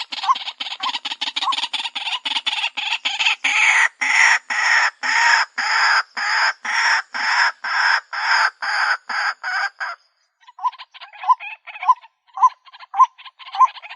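White-breasted waterhen calling: a fast, even run of harsh repeated notes, several a second, for about ten seconds. After a brief break it gives way to a slower series of single pitched notes, about two a second.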